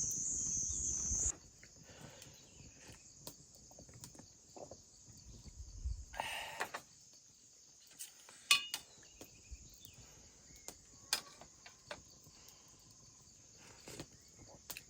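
Steady high-pitched insect chirring, loud for about the first second and then dropping abruptly to a faint level, with scattered small clicks and a brief rustling noise about halfway through.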